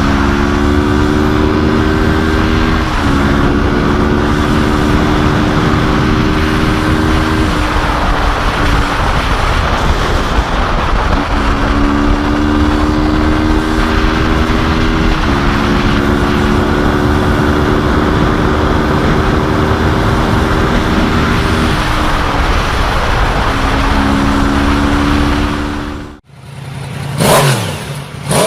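Motorcycle engine accelerating hard through the gears: its pitch climbs in each gear and drops at each upshift, over steady wind and road noise. Near the end, after an abrupt cut, a motorcycle passes by with its pitch falling.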